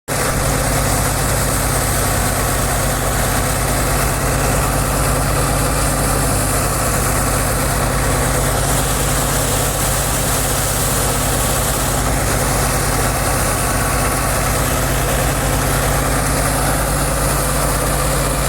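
Fiat 640 tractor's four-cylinder diesel engine running at a steady speed, with an even, fast low pulsing that does not change.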